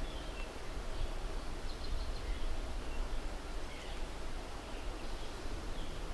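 Steady outdoor background noise with a low rumble, and a few faint, short bird chirps scattered through it.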